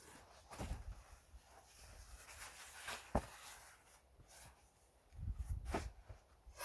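A few scattered knocks and low thuds of split pine firewood being handled and set down while it is loaded into a car's cargo space, with one sharp knock about three seconds in.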